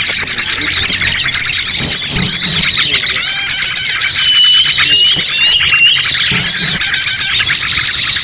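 Dense, loud chorus of many small birds chirping and whistling over one another without a break, a bird-trapping lure call meant to draw wild birds in. A few clearer whistled notes stand out about halfway through.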